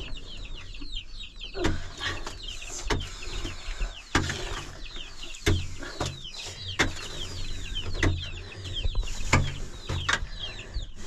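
Chickens clucking with a steady stream of high chirps, and a sharp knock about every second and a bit, eight times in all.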